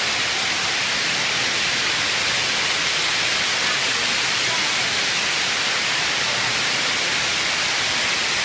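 Torrential thunderstorm rain pouring down, an unbroken steady rush of noise.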